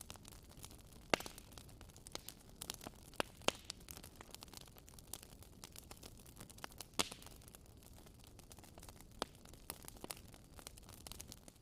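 Wood fire in a fireplace crackling: a steady soft hiss with frequent small pops and a few louder sharp snaps, the strongest about a second in and around seven seconds in.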